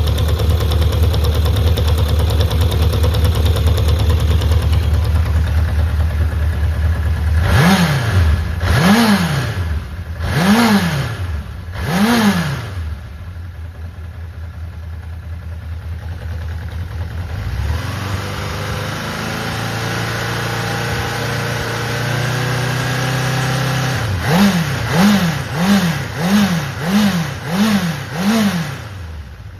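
Honda CB750 (RC04) air-cooled DOHC inline-four engine running. It idles steadily, is blipped four times with the revs rising and falling, settles back to idle, then is blipped six times in quicker succession. The seller describes it as running without abnormal noise.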